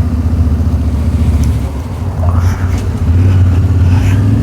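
Yamaha Ténéré 700's parallel-twin engine running while riding. It eases off briefly about two seconds in, then picks up again and pulls steadily.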